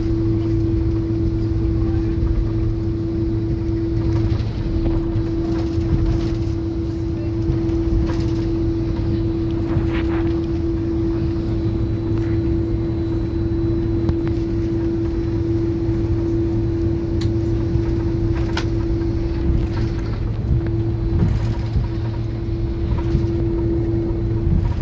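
Steady cabin hum inside an Airbus A330 on the ground after landing, a constant low tone over the air and engine noise, with a few light clicks.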